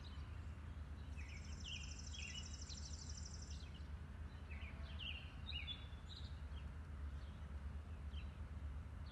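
Faint outdoor ambience: scattered bird chirps over a low steady rumble, with a high, rapid trill starting about a second in and lasting a couple of seconds.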